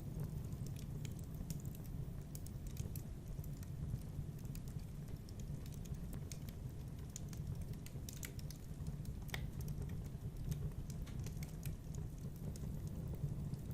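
Wood fire in a fireplace crackling: irregular small pops and snaps over a steady low rumble of the burning fire.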